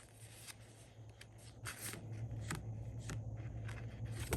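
Paper rustling and crinkling as sheets are handled: a run of short, crisp rustles over a steady low hum.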